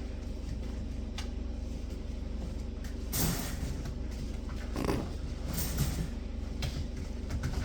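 Goldendoodle puppies moving about in their pen: a few short scuffling, rustling noises over a steady low hum.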